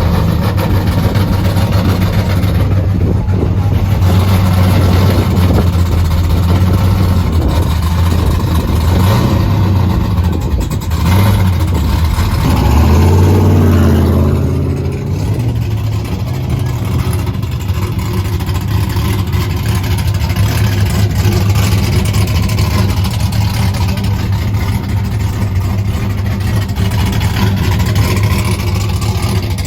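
A car or truck engine running loud and steady. It revs up about twelve seconds in and drops back a couple of seconds later.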